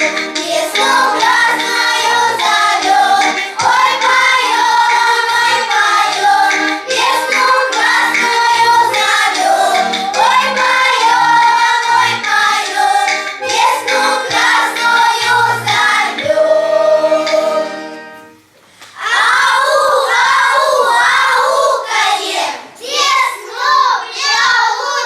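Children singing a song with musical accompaniment, ending on a held final chord about three-quarters of the way through, followed by applause.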